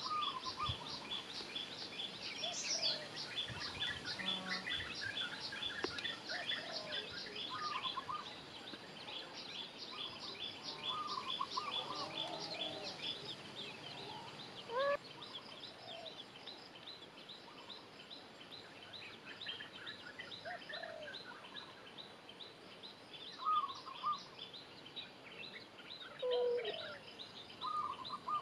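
Birds calling: a rapid high-pitched chirp repeated several times a second, with scattered short lower calls, the loudest of them about halfway through and near the end.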